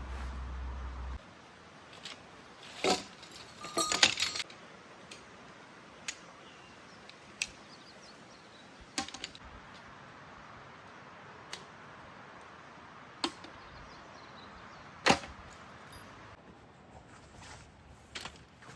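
A series of sharp clicks and knocks at uneven intervals, with a short cluster of them about three to four seconds in and a loud single knock near the end; a low hum stops about a second in.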